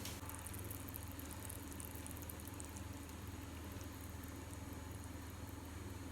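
Hot caramel sauce being poured over cooked apples, crackling and sizzling faintly in the first couple of seconds, over a steady low hum.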